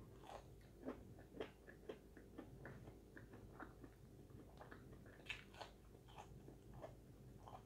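Faint biting and chewing of breaded fried snacks such as cheese sticks and nuggets, heard as an irregular scatter of small crunchy clicks.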